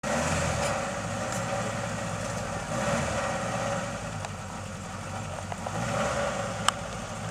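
Car engine idling steadily, with a single sharp click near the end.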